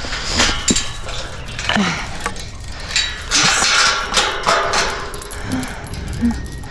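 Repeated metal clinks and knocks with rustling and handling noise.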